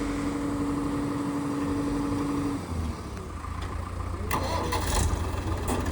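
Heavy diesel machinery running. A steady whine drops out about two and a half seconds in and the engine note deepens, then a rattling clatter comes about four seconds in and again briefly near the end.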